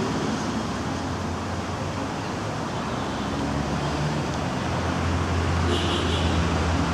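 A motor vehicle's engine hum over steady rushing noise, the hum growing louder in the second half.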